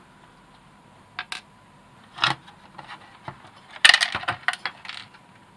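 Sharp clicks, then a rapid burst of clattering and rattling in the second half, from the plastic parts of a robot vacuum being handled and prised apart while its suction motor is worked free.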